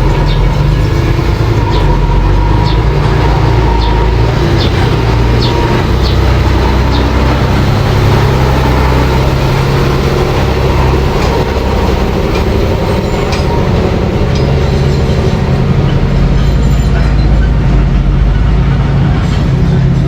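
Mini bulldozer running steadily under load, its engine hum overlaid with scattered metallic clanks and clicks from the tracks and blade.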